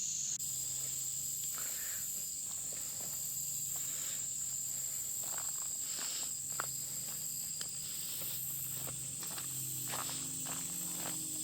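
Insects droning steadily at a high pitch, with irregular footsteps on the trail.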